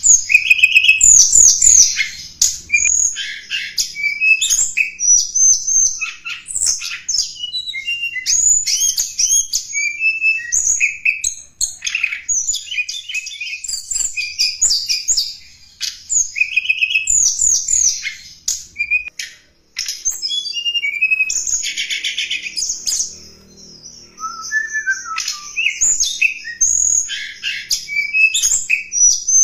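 Tledekan gunung song: rapid strings of high chirps and short whistled phrases, sung almost without a break, with a few short pauses. This is a lure-call recording, the kind played to attract wild birds of the same species.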